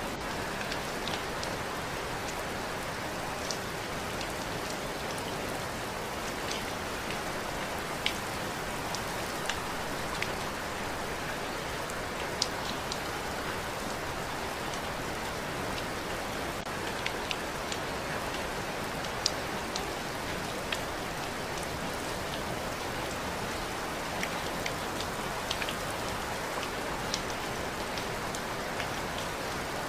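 Steady rain falling, with individual drops tapping sharply here and there, about one every second or two.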